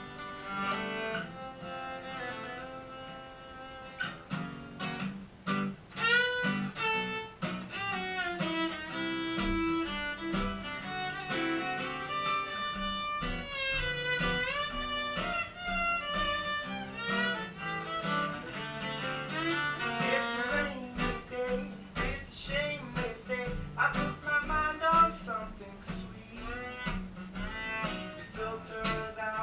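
Live acoustic duo instrumental: a strummed and picked acoustic guitar under a bowed string melody that slides and wavers in pitch.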